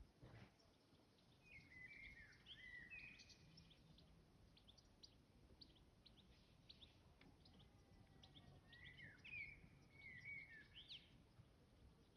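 Faint bird chirps: two short twittering phrases, one about two seconds in and another around nine seconds, with scattered single chirps between them.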